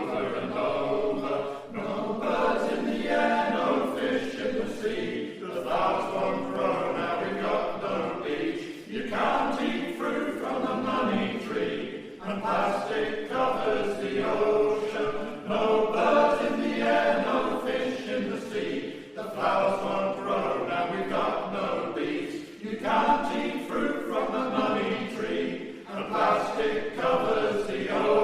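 Male voice choir singing a shanty in phrases a few seconds long.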